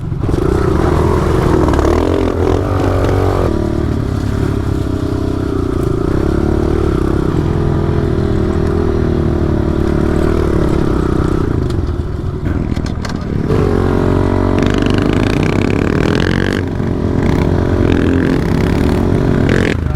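Pit bike engine running while riding, the revs rising and falling with the throttle; it eases off about twelve seconds in, then picks up again.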